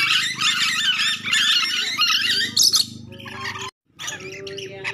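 Nuri dora parrots squawking in a busy chorus of rapid, rising and falling calls. A little over three seconds in the sound cuts out for a moment, and sparser calls follow.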